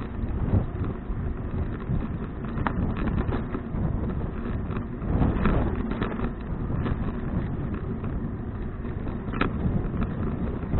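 Wind buffeting a bicycle-mounted action camera's microphone while riding, with road rumble and a couple of sharp clicks.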